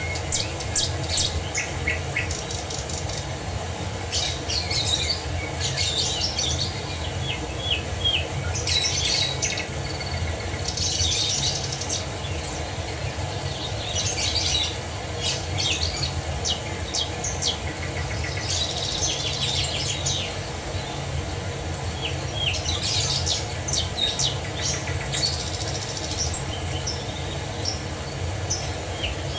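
Songbirds singing and chirping in repeated bursts of quick high notes and trills, over the steady rush of a waterfall.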